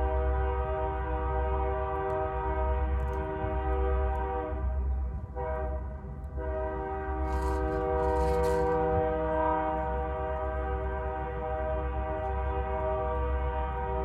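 Train horn sounding long sustained blasts, cut off briefly about five seconds in and then resumed, over the low rumble of the passing train.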